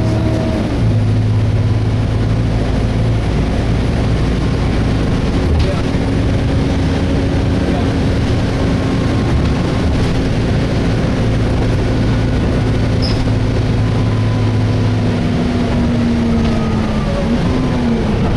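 Volvo B7TL double-decker bus's diesel engine and cooling fan heard from on board, a steady drone while the bus drives. The fan runs without any screeching. Near the end the engine note drops slightly.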